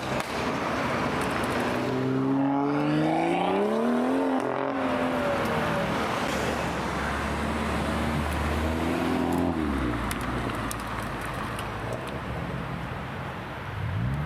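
Modified cars with loud aftermarket exhausts driving past, their engines revving up: one climbs in pitch about two seconds in, another around nine seconds in, and a third rise comes near the end, over a steady low drone and road noise.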